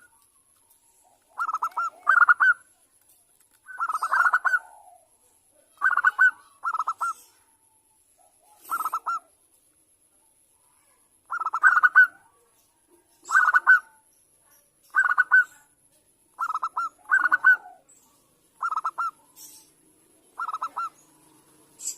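Zebra dove (perkutut Bangkok) cooing: a series of short, rapidly pulsed coo notes, one every second or two, with a longer pause near the middle.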